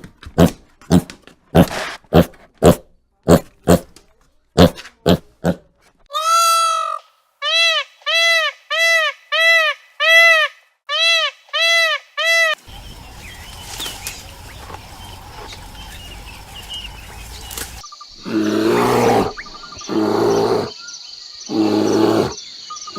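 A run of different animal sounds one after another: first about ten sharp knocks, then a quick series of short high calls that each rise and fall, then a stretch of steady hiss, then deep rough grunting calls near the end.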